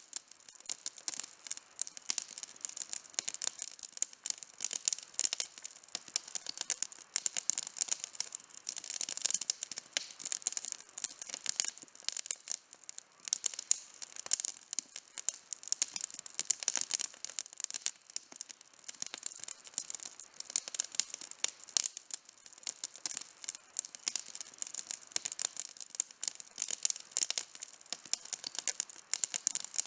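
Wood campfire burning, crackling steadily with many quick pops and snaps.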